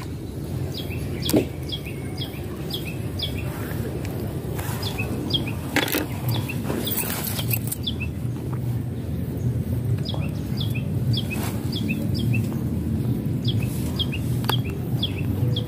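A bird calling again and again, short downward-slurring chirps in quick runs, over a steady low rumble, with a couple of brief knocks.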